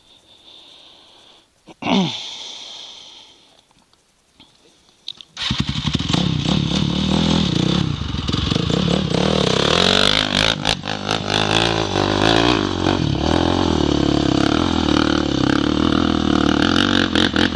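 A 400 cc dirt bike engine: a sharp thump with a brief falling whir about two seconds in, then the engine starts about five seconds in and runs loudly, its revs rising and falling unevenly.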